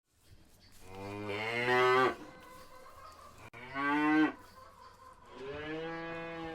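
A cow mooing three times: a long, loud first moo, a short second one, and a quieter, drawn-out third.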